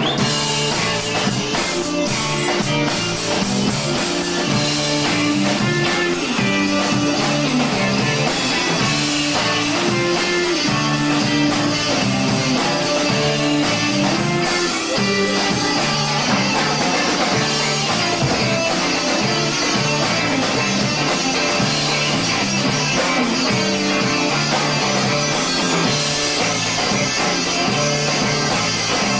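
Rock band playing an instrumental passage: guitars and a stepping bass line over a steady drum kit beat.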